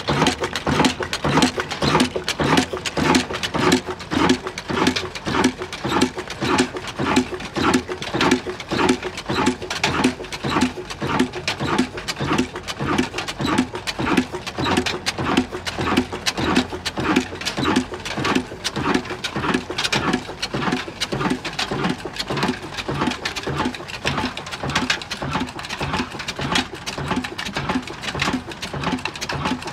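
Old Ruston Hornsby stationary diesel engine running at a slow, steady speed, its exhaust beats coming in an even rhythm of roughly two a second.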